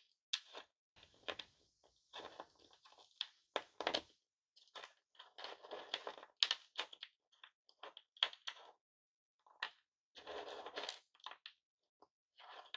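Lollipops handled in their wrappers: irregular crinkling, crackling and crunching with sharp clicks, in short bursts with brief pauses between them.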